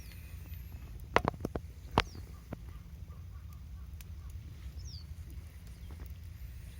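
Short high bird chirps and falling whistles over a steady low rumble, with a quick run of sharp clicks or knocks about a second in and one more at two seconds.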